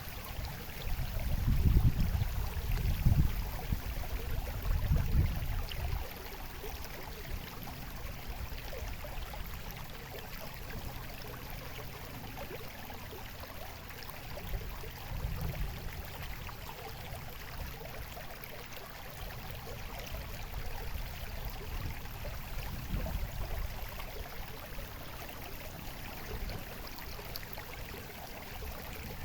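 Babbling, trickling stream water running steadily, with several low rumbles in the first few seconds and fainter ones later.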